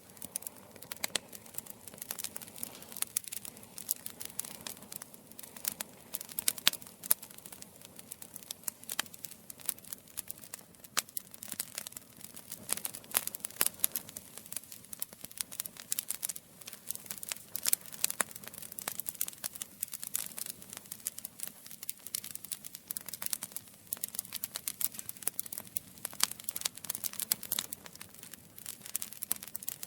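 Campfire burning, wood crackling and popping in many quick, irregular snaps over a low steady hiss.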